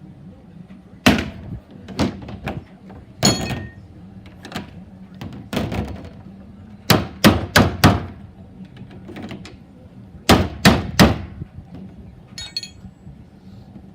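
A series of loud, irregular knocks and bangs, some single and some in quick runs of three or four, over a low steady hum.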